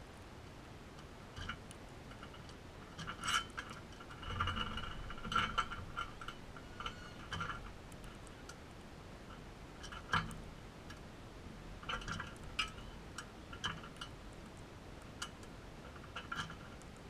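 Crimson rosellas making irregular sharp clicks, mixed with short, soft chattering notes that cluster a few seconds in and again past the middle.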